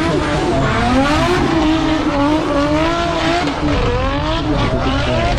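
Drift car engine revving hard through a run, its pitch swinging up and down several times as the throttle is worked mid-slide, over a steady rush of noise.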